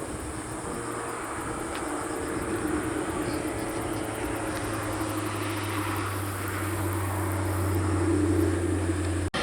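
Aircraft engine noise growing steadily louder as a plane approaches, over a steady low hum, broken off abruptly near the end.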